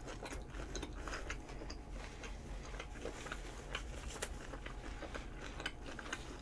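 Close-miked chewing of a mouthful of food: faint, irregular small clicks and crunches.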